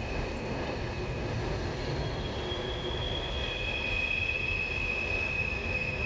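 Loaded coal hopper cars rolling across a railroad bridge: a steady low rumble with thin, high wheel squeals that come in about two seconds in and are loudest around four to five seconds in.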